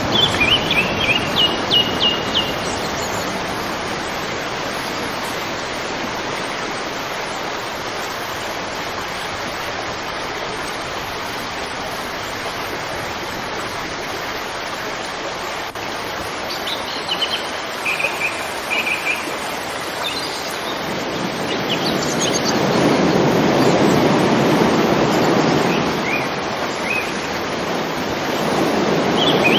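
Steady rush of flowing river water, swelling louder for a few seconds about two-thirds through. A small bird chirps in short repeated notes near the start, again past the middle, and near the end.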